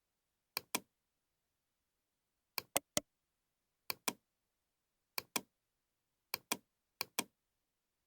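Computer mouse clicking: six quick groups of sharp clicks, mostly pairs and one triple, spaced a second or so apart with dead silence between.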